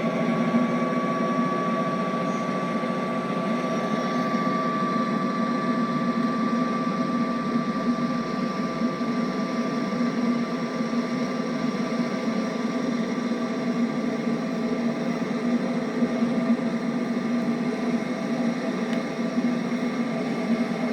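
A train running through the station: a steady rolling rumble with a thin high whine over it.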